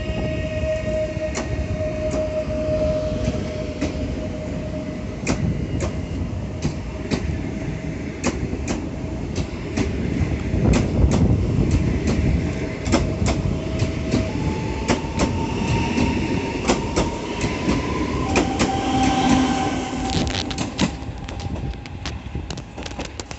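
PESA Dart ED161 electric multiple unit running along the track: a steady rumble with many sharp wheel clicks over the rail joints. About halfway through, an electric whine rises in pitch. The whole sound fades over the last few seconds.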